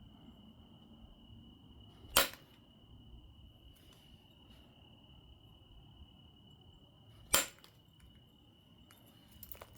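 Two sharp percussion strikes on an obsidian biface, about five seconds apart, each a single crisp crack with a short ring, followed by a few light clicks near the end.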